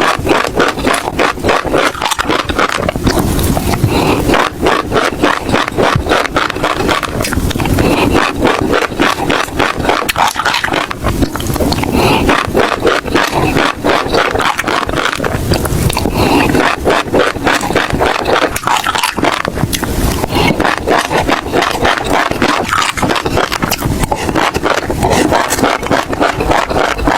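Close-miked chewing of crunchy seeds: a dense, continuous run of crisp crunches and crackles in the mouth.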